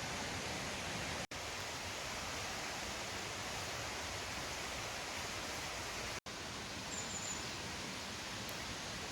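Steady rushing outdoor noise that cuts out for an instant twice, with one short high chirp about seven seconds in.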